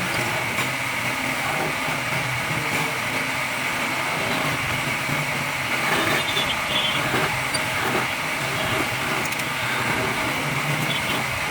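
A woodworking power tool running steadily as it shapes wood, with a constant high whine.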